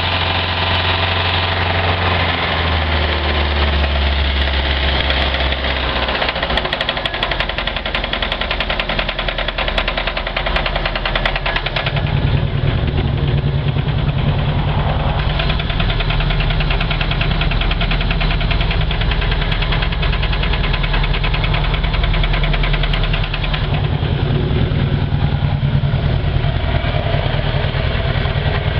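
MerCruiser 3.0-litre four-cylinder marine engine running with a steady internal knock. Its low note grows stronger about twelve seconds in.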